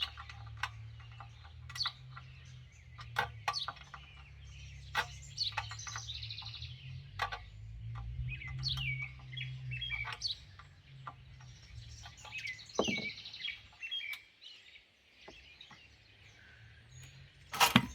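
Songbirds chirping and trilling, with scattered sharp clicks and knocks of tools and metal parts being handled. A low steady hum runs underneath and fades out about two-thirds of the way through.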